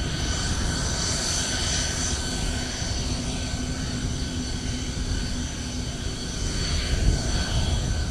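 Aircraft engine running, a steady rushing noise with a faint high whine and a low hum partway through.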